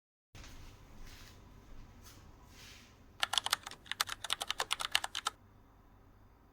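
A rapid, irregular run of light clicks, about ten a second, lasting about two seconds, after a faint hiss.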